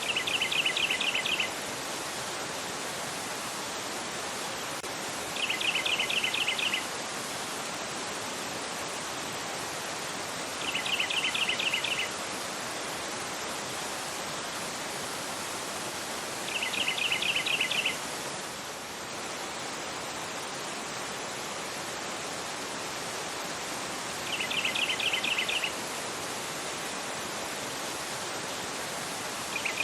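River water rushing over a rocky bed, a steady even wash of noise. Above it a bird sings a short trill of quick, evenly repeated chirps, about a second and a half long, six times, every five to eight seconds; these trills are the loudest sound.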